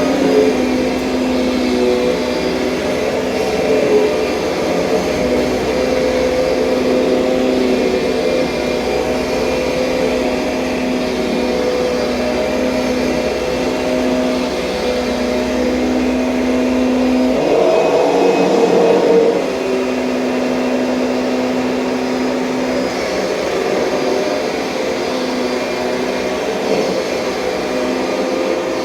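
Kirby Sentria upright vacuum cleaner running steadily with an even motor hum. About two-thirds through, the hum turns briefly louder and rougher for a couple of seconds, then settles back.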